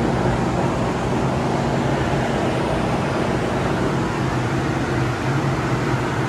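Steady drone of a GO Transit diesel commuter train idling at the platform: a low, even engine hum under a broad rumbling hiss, echoing under the trainshed roof.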